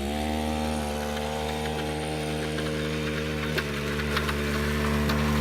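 Small motorbike engine idling steadily, its pitch lifting slightly at the start and then holding, getting gradually louder toward the end.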